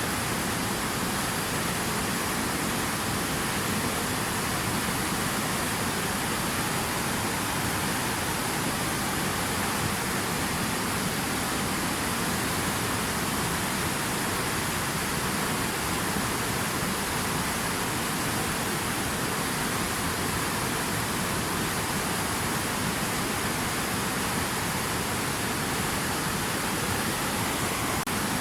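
Steady rush of flowing water, an even unbroken noise with no single splashes standing out.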